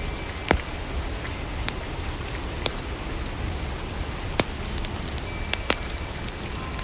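Steady rainfall ambience with a low rumble underneath, broken by about half a dozen sharp, scattered clicks.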